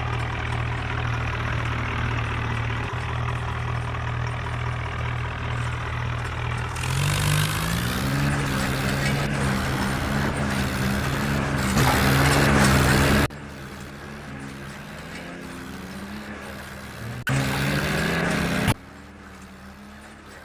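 Tractor engine running steady at idle, then revving up about seven seconds in and holding at higher revs, with abrupt cuts and jumps in the sound.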